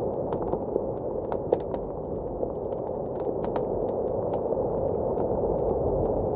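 Fireplace crackling, sharp pops scattered irregularly, over a steady, dull rush of blizzard wind.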